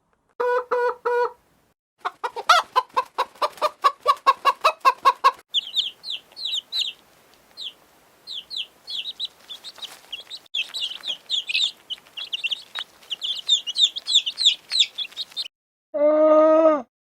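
Chickens: a short call, then a fast run of hen clucks, then a long stretch of high, rapid peeping. Near the end a low moo from a cow begins.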